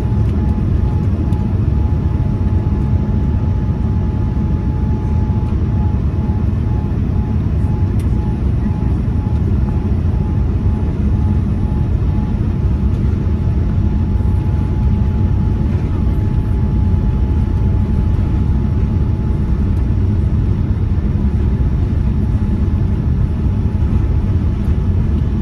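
Steady cabin noise inside a Boeing 787-9 in flight: a constant low rumble of engines and airflow, with a faint steady whine above it.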